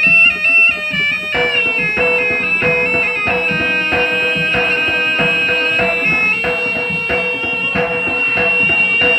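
Live jaranan ensemble music: a reedy shawm, the slompret, plays sustained melody notes over drumming.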